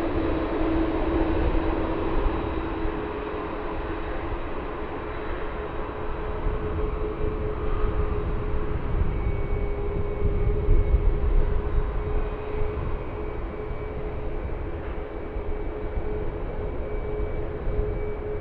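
Boeing 747-400 jet engines running with a steady drone and a held whine, over a gusty low rumble of wind on the microphone.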